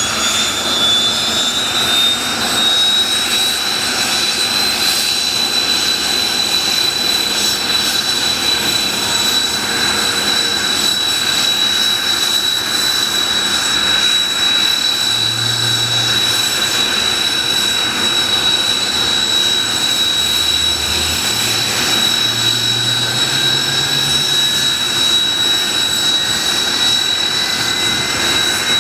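Kawasaki T-4 jet's turbofan engines whining over a steady roar. The whine rises a little over the first few seconds, then holds steady at idle after engine start.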